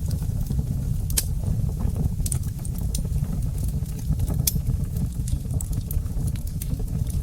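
Wood fire crackling in a fireplace: a steady low rumble of burning with scattered sharp pops, two louder ones about a second in and a little past the middle.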